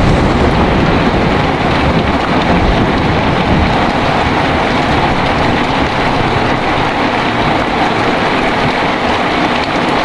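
Heavy rain pouring steadily, with a low thunder rumble dying away over the first few seconds.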